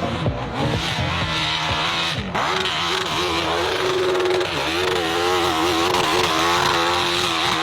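Hill-climb motorcycle engine revving, its pitch rising and dipping over and over as the throttle is worked, with a brief break about two seconds in.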